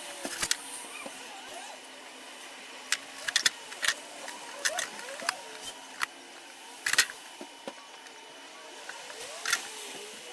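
Sharp clicks and taps of metal marking-out tools handled on a plywood board, with faint squeaky scraping strokes, typical of circles being scratched into the plywood surface.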